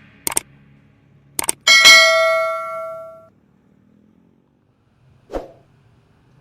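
A few sharp clicks, then a single bell-like metallic ding that rings on for about a second and a half before fading. A short dull thump follows near the end.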